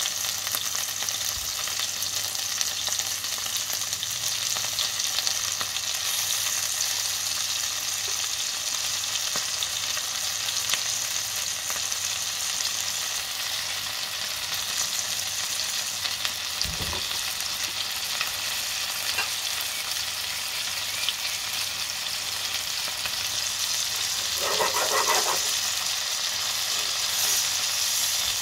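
Floured pieces of liver frying in a pan of hot fat: a steady, high sizzling hiss with fine crackle. A short knock about midway and a brief louder sound near the end.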